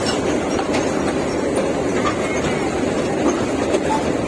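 Park toy train running along its track: a steady rolling noise with faint light clicks.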